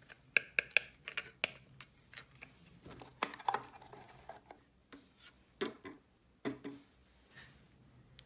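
Small plastic toy pieces being handled and set down: irregular light clicks and knocks in short clusters, busiest in the first second and a half.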